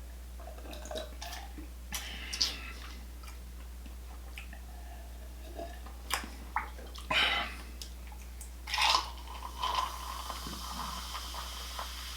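Close-up wet eating sounds of mussels in garlic butter sauce: slurping, sucking and chewing. Scattered short wet bursts, the loudest about two and a half, seven and nine seconds in, sound over a steady low hum.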